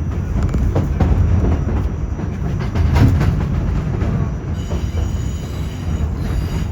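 R46 subway train running between stations with a heavy rumble and repeated clicks of the wheels over rail joints. About four and a half seconds in, a faint high wheel squeal comes in.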